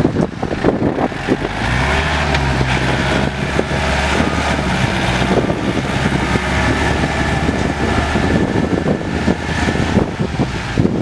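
Diesel tractor engines running steadily, with repeated clanks and knocks over the engine note. The engine note grows stronger about two seconds in and then holds.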